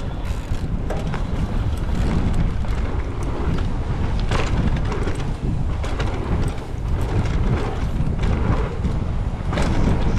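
Wind buffeting a mountain bike rider's camera microphone, with a steady low rumble and irregular clicks and knocks as the bike rattles over a rough dirt trail at speed.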